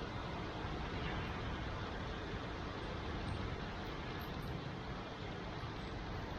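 Steady wash of heavy rain blended with the low hum of city traffic below, heard from high up in a tower block.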